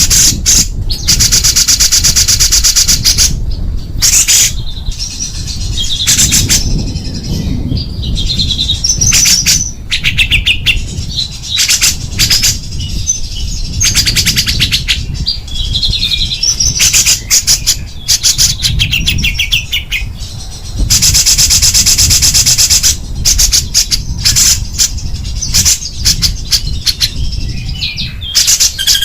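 Songbird singing fast, harsh rattling trills in long runs, broken by short high chirped phrases: the dense 'tembakan' bursts used in masteran bird-song training recordings, over a low background rumble.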